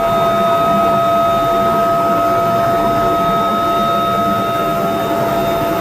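Helicopter turbine engines running with a steady high whine over a constant rushing noise.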